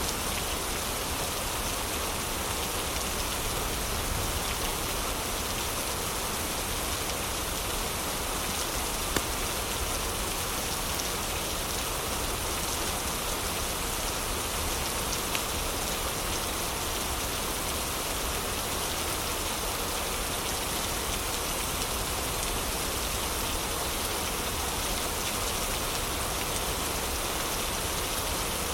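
Heavy rain falling steadily, a dense even hiss. Two faint sharp ticks stand out, about nine and fifteen seconds in.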